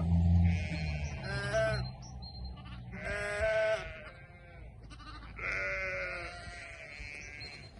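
Sheep bleating, about four calls a second or two apart, the loudest about three seconds in. A low hum fades out in the first second or two.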